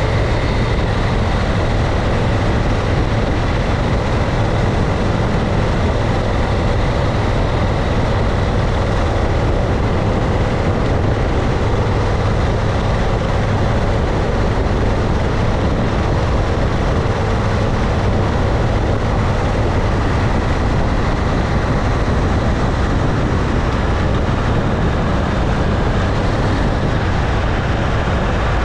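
Motorcycle cruising at a steady speed: a loud, even rush of wind on the microphone over the running engine, with no change in pace.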